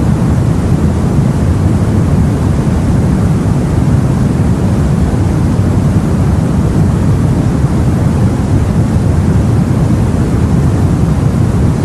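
Steady, deep rushing noise of wind and sea heard from a boat, even throughout, with no separate wave crashes.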